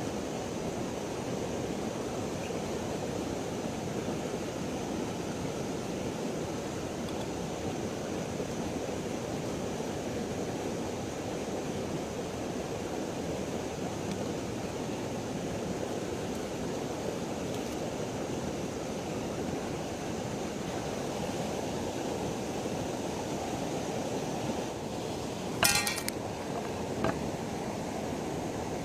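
Steady rush of flowing river water, with a sharp clink near the end and a fainter one about a second later.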